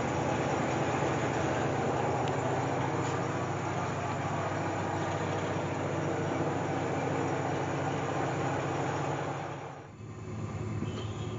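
Sanriku Railway diesel railcar running along the track: a steady rumble with a low engine hum. It cuts off suddenly near the end, leaving a quieter background.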